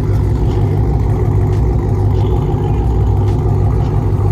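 Steady, loud low rumble of a car engine running, with no clear revving.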